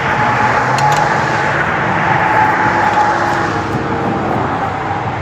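Road traffic: a vehicle passing close by with a steady tyre and engine rush that swells through the middle and eases off near the end.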